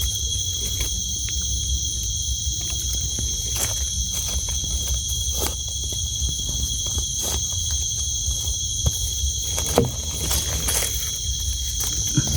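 Steady chorus of night insects such as crickets, two high unbroken trills over a low rumble, with scattered faint clicks and crackles.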